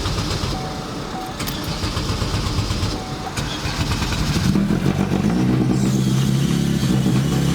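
Chevy Cruze's turbocharged 1.8 four-cylinder being cranked over, then catching about four and a half seconds in and running with a steadying note. The engine is hard to start because it is not yet tuned.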